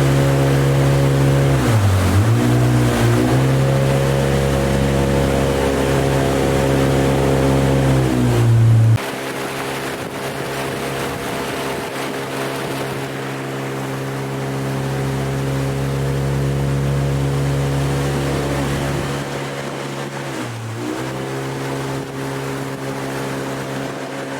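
Engine running steadily. Its pitch drops and comes back briefly twice, once about two seconds in and again near the end. About nine seconds in, the deepest part of the sound cuts off suddenly and the overall level falls.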